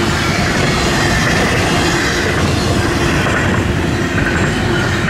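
Florida East Coast Railway freight cars rolling past at close range, a loud, steady rumble and rattle of steel wheels on rail.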